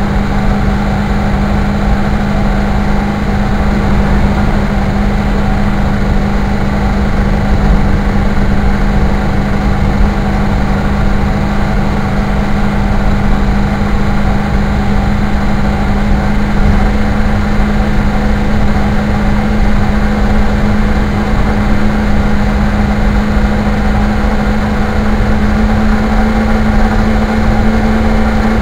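Car engine and road noise while driving at a steady cruise: a loud, even drone with a steady low hum that holds the same pitch throughout.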